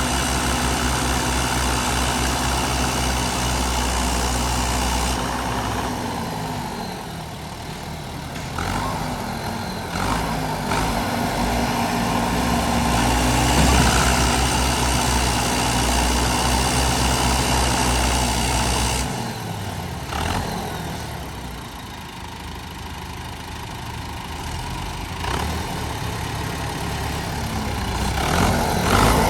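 Tractor diesel engine running, its speed falling and rising several times as it is throttled up and down under load.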